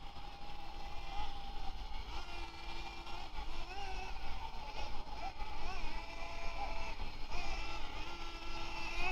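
Brushless motor and spur gearing of a Xinlehong 9125 1/10-scale RC truck whining. The pitch holds, then rises and falls again and again as the throttle is worked.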